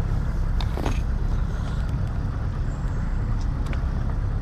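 Motorboat engine running steadily, a continuous low rumble, with water and wind noise over it.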